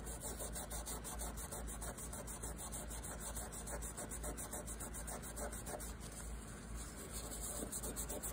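Scotch-Brite pad scrubbing a chainsaw piston by hand with WD-40, a steady run of quick back-and-forth rubbing strokes as it scours carbon smear off the piston crown.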